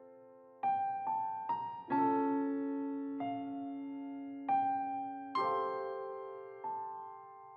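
Background music: slow, gentle piano, notes and chords struck every second or so and left to ring and fade away.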